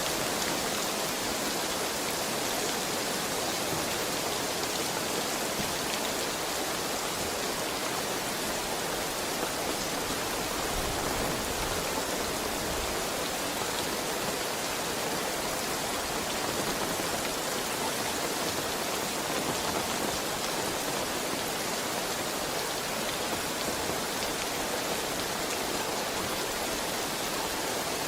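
Heavy rain falling steadily, a dense even hiss with no pauses or thunder.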